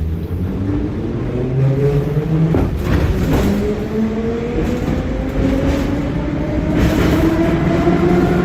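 81-717.5M/714.5M "Nomernoy" Moscow Metro train accelerating out of a station: the traction motor whine rises steadily in pitch over the running rumble, with a few sharp knocks a few seconds in.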